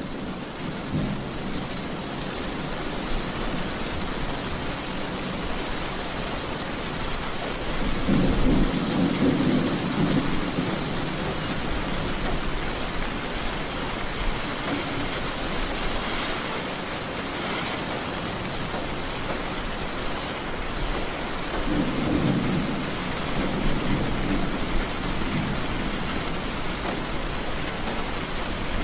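Steady rain falling, with low rolling thunder rumbles that swell and fade three times: faintly at the start, loudest about a third of the way in, and again about three quarters through.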